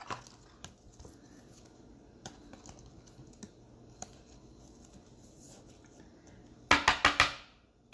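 Trading cards and their packaging handled by hand: soft scratches and small clicks, then a quick run of four or five loud crackles near the end.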